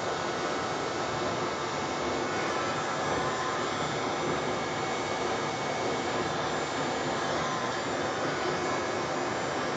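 Small hair dryer blowing steadily and unbroken, used for a Dutch pour to push wet acrylic paint across the canvas.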